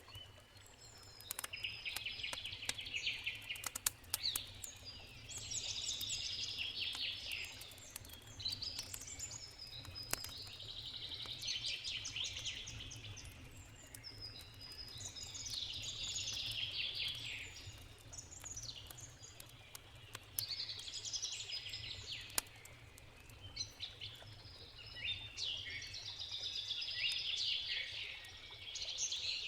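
A songbird sings a repeated song phrase every four to five seconds over the sharp pops and crackles of a wood campfire, with a low steady rush of river water underneath.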